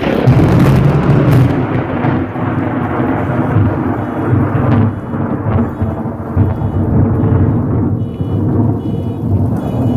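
Thunder from a lightning strike: a sudden loud crack as it opens, then a long rolling rumble that swells and fades in waves.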